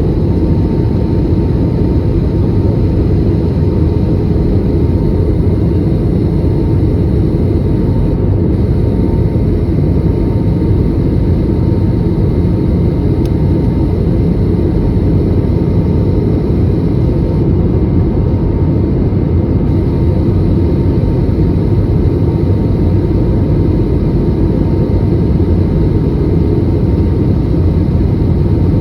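Steady low rumble of an airliner, with a faint constant hum above it and no change in pitch or level.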